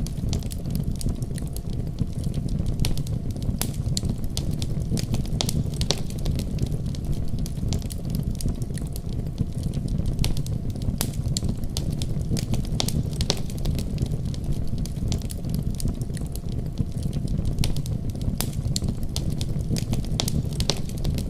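Wood fire crackling in a fireplace, with frequent irregular sharp pops and snaps, over the steady deep rumble of a winter storm.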